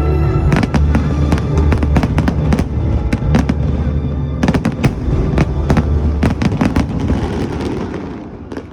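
Fireworks going off in a rapid string of bangs and crackles, with music playing underneath; the bangs thin out and fade near the end.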